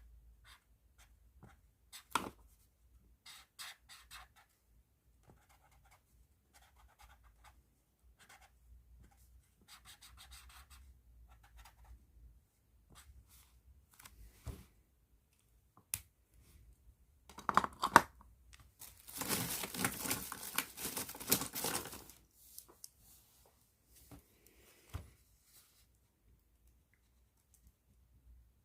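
A pen scratching on paper in short, scattered strokes with a few sharp clicks. A louder stretch of dense, rapid scratching comes about two-thirds in.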